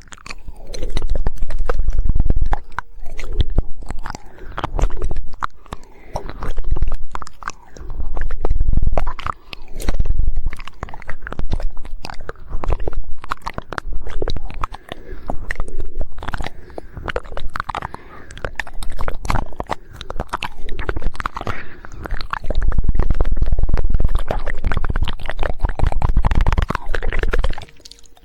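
Rapid 'woodpecker' tongue clicking and wet mouth sounds made right up against the microphone. They come in loud swells with a heavy low rumble every two seconds or so.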